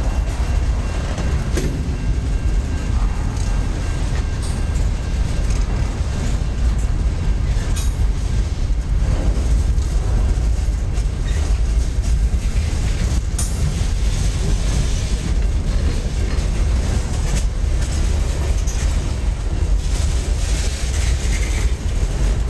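Freight cars of a passing train rolling by: a steady rumble of steel wheels on rail, with scattered clicks and clanks as the wheels cross the rail joints.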